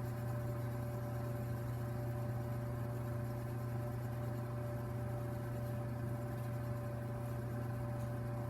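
Fireplace giving off a steady low droning hum, likened to a helicopter, with a thin steady higher tone over it and no change in pitch or level.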